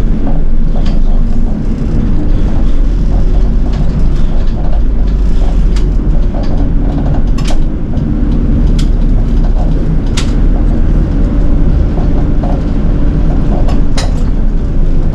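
Inside a city bus, its diesel engine running with a steady low rumble and cabin rattles, with scattered sharp clicks a few seconds apart, two close together near the end.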